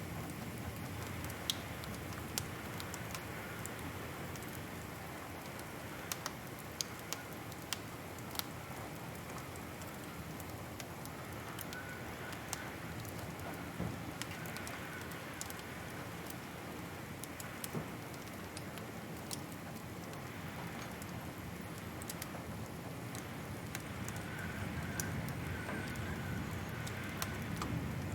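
Wood fire crackling: scattered sharp pops and clicks at irregular intervals over a steady soft hiss.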